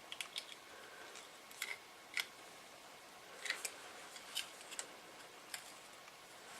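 Faint, irregular small metal clicks and ticks as the steel mounting tabs of a handheld radio's chassis are bent over and into place against the circuit board.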